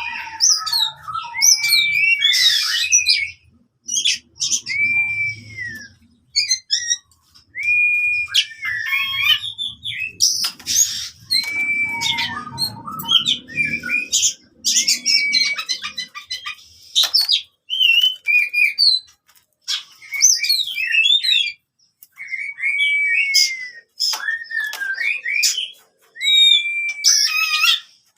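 Oriental magpie-robin (kacer) singing its loud fighting song: clear whistled notes that arch up and down, mixed with rapid varied chattering phrases, in bursts with short pauses between them.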